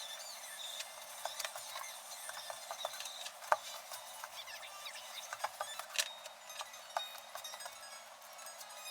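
Scattered light clicks and clinks, the sharpest about three and a half seconds in and again at six seconds.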